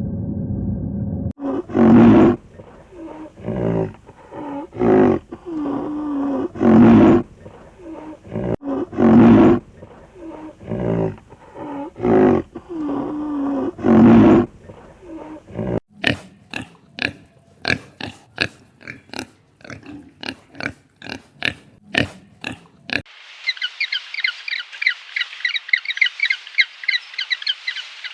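Farm animals calling in turn. First comes a run of pitched calls about once a second, then a quick series of sharp clicks, then high, rapid chirping of young birds near the end.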